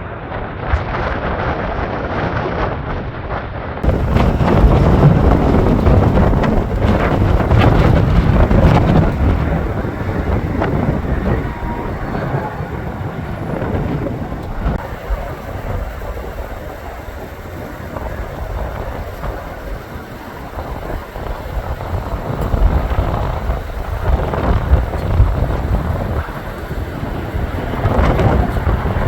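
Strong, gusty wind buffeting the microphone: a loud low rumble that swells and eases from gust to gust.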